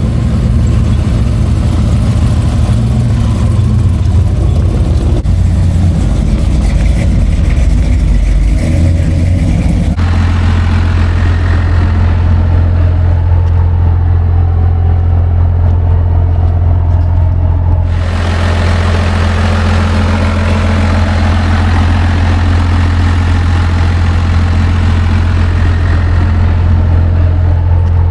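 Vehicle engine idling with a steady low hum, the sound changing abruptly twice, about ten and eighteen seconds in.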